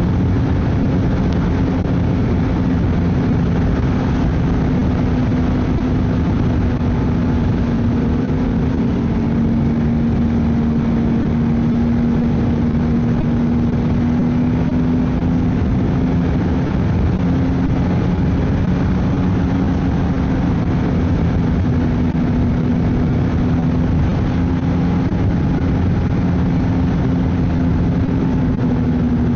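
Ski-Doo snowmobile engine running steadily under way, its note holding nearly level with small dips and rises in pitch.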